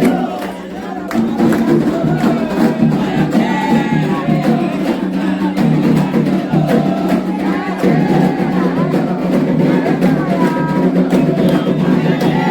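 Candomblé ritual music: hand drums and a struck bell keep a steady beat under a group of voices singing a chant together. The music drops back briefly near the start, then picks up again.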